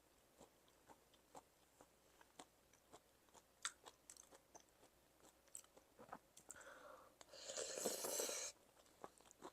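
Close-up eating sounds: chewing with small wet mouth clicks while eating a crunchy cucumber and seafood salad. Near the end comes a louder rushing stretch of about a second and a half.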